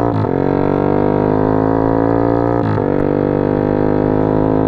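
Motorcycle with a Norifumi free-flow aftermarket exhaust, running under way with a loud, steady droning note whose pitch creeps slowly upward. The pitch dips briefly near the start and again about two and a half seconds in.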